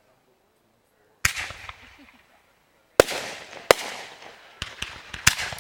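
Fireworks going off close overhead: a sharp bang about a second in with a crackling tail, then after a pause two more bangs and a quick run of sharp pops.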